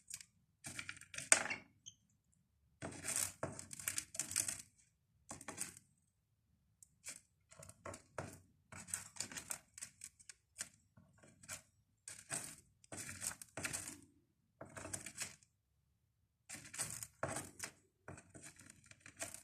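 Cockatiel pecking at seeds on a floor: bursts of rapid small clicks and crackles from its beak, a second or so each, with short quiet gaps between.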